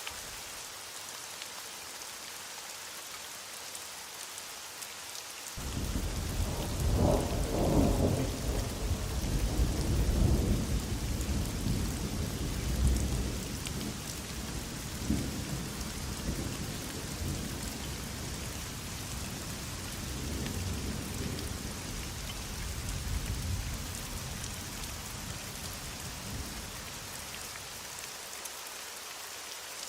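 Heavy rain falling steadily, with a long roll of thunder. The thunder comes in suddenly about six seconds in, is loudest over the next several seconds, then rumbles on in softer waves and dies away a few seconds before the end.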